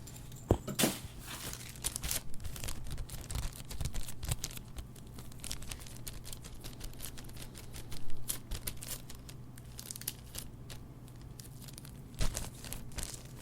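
Packaging or plastic being crinkled and torn open close to a clip-on lavalier microphone: irregular crackling and crunching with louder spikes now and then. A faint steady low hum runs underneath.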